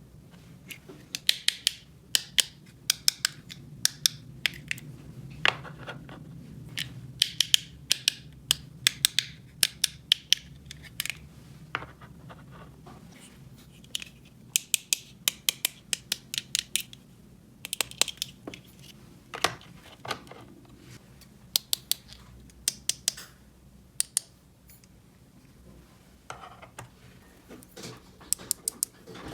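Small hard plastic toy pieces being handled, clicking and tapping against each other in quick clusters of sharp clicks, with pauses between.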